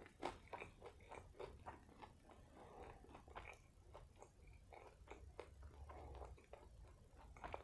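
Faint close-up chewing of a burger: many small wet mouth clicks and smacks at an uneven pace.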